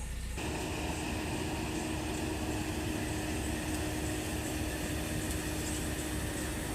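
Harvesting machinery running steadily: an even engine drone with a constant hum that comes in abruptly just after the start.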